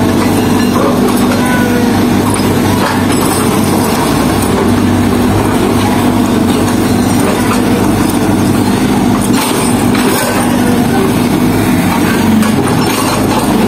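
Heavy road-works machine's diesel engine running steadily while it breaks up the road, with scattered knocks and clanks.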